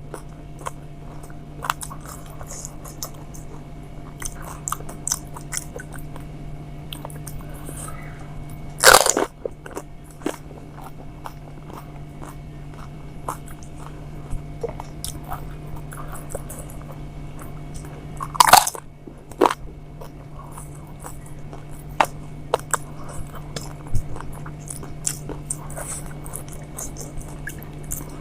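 Golgappa (pani puri) being eaten close to the microphone: crisp puri shells crunching and chewing with many small wet clicks. Two much louder crunches come about nine and eighteen seconds in, over a steady low hum.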